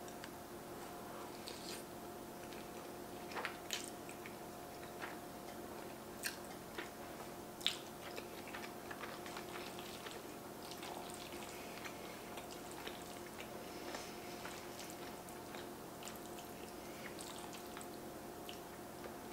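Close-miked chewing and wet mouth sounds of a person eating beef stroganoff with soft egg noodles, with scattered small clicks. A faint steady hum lies underneath.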